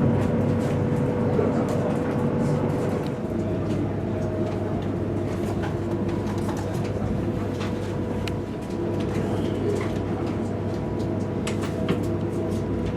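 Steady running noise inside the passenger cabin of a high-speed EMU train: a continuous hum with a few held tones, with scattered light clicks, more of them near the end.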